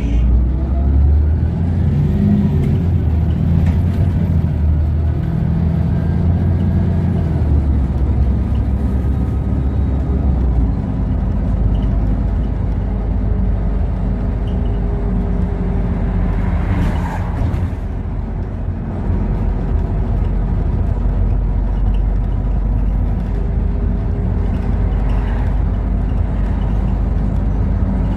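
LiAZ 5292.65 city bus heard from inside while under way: the diesel engine and drivetrain running steadily, with the engine note rising over the first few seconds as the bus accelerates. A short burst of hissing noise comes about two-thirds of the way through.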